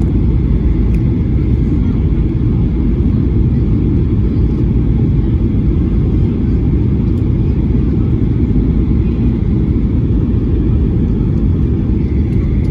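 Steady low rumble inside a jet airliner's cabin in flight on approach to landing: engine and airflow noise, even and unchanging.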